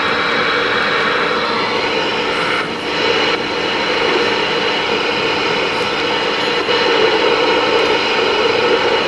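Steady radio static hiss from a receiver tuned to 28.000 MHz, an open channel with faint steady tones in the noise.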